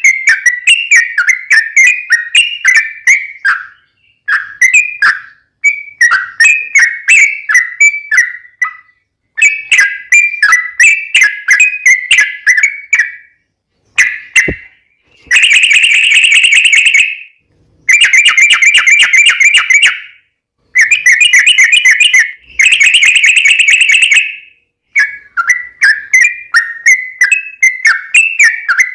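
Yellow-vented bulbul (trucuk) singing loudly: bursts of quick bubbly chattering notes, with three longer rapid trills in the middle, the long "ropel" run used as a lure to set other trucuk singing.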